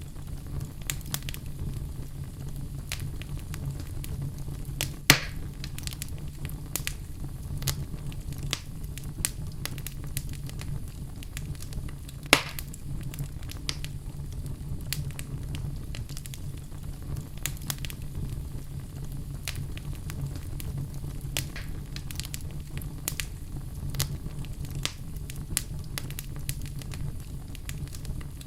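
Wood fire burning in a fireplace: a steady low rumble of flames with frequent small crackles and two louder pops, about five and twelve seconds in.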